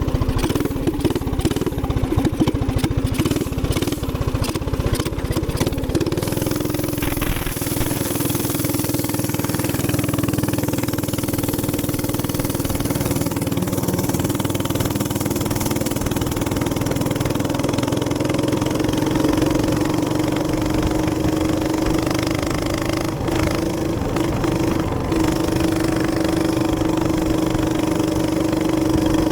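Minibike's small gas engine running under way: it pulses unevenly for the first several seconds, then picks up about six seconds in and holds a steady, higher drone as the bike rides along.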